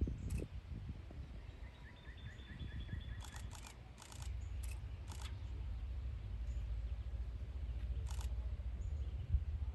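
Camera shutters clicking, single shots and quick double bursts, over a low steady rumble. A brief rapid series of high chirps comes about two seconds in.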